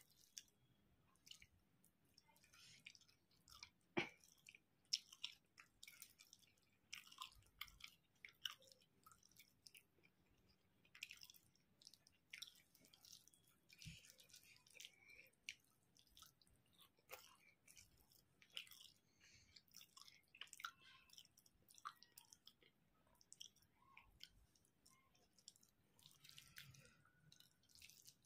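Quiet, close-up chewing of a mouthful of rice and curry, with many short wet mouth clicks and smacks; a few are louder about four and five seconds in.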